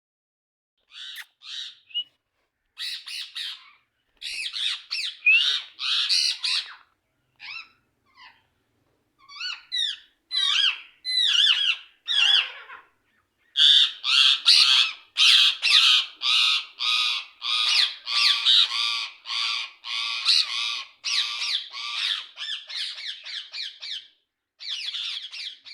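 Green parrots calling in quick runs of short squawks, with pauses in between at first, then an almost unbroken stretch of calls through the middle and latter part.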